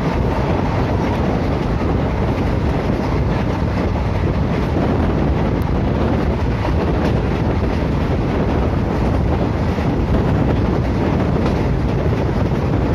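Train running on the rails: a steady rushing rumble of wheels on track, with a few faint clicks along the way.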